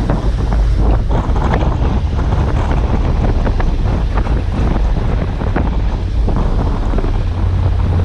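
Wind buffeting the microphone: a steady heavy low rumble with dense irregular crackling.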